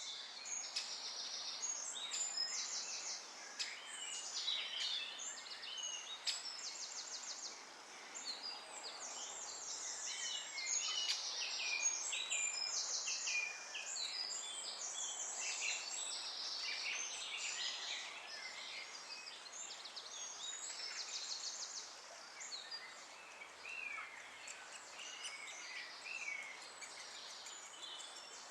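Great spotted woodpecker chick begging from the nest: runs of fast, high, ticking chatter, each lasting about a second, repeated over and over, with other chirps mixed in.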